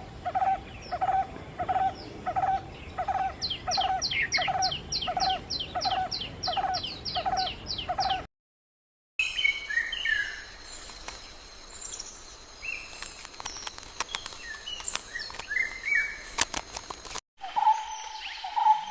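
Birds calling in three separate recordings cut together. First comes a call repeated steadily about every two-thirds of a second over a run of high, quick down-slurred notes. It cuts to silence for about a second, then to a mix of varied high chirps and clicks, and near the end to another run of rapidly repeated calls.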